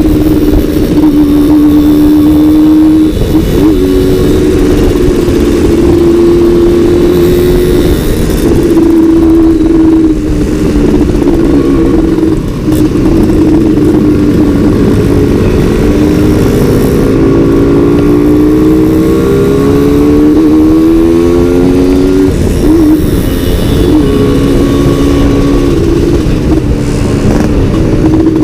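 Two-stroke Suzuki Satria 120 motorcycles riding, their engine notes holding steady, dropping back and rising again as the throttles open and close; in the middle two engines are heard at different pitches, climbing together.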